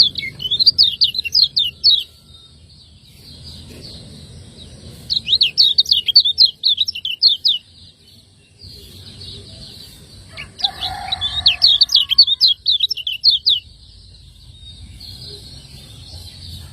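Kecial kuning (Lombok white-eye) singing its fast 'ciak ciak' chirping song in three bursts of rapid, high, sweeping notes, each burst a couple of seconds long with short pauses between.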